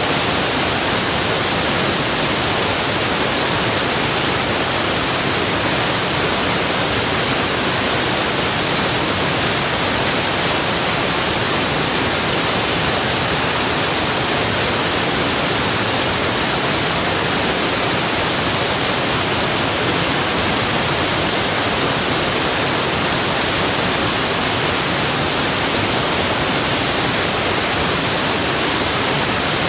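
Rushing water making a steady, even hiss that doesn't change, with no individual splashes standing out.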